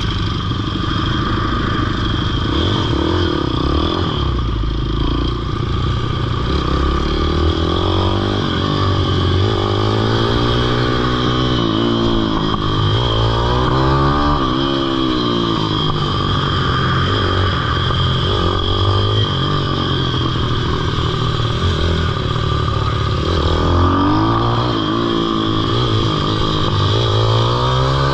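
Pitbike engine being ridden hard, its pitch climbing and dropping again and again as the throttle is opened and closed.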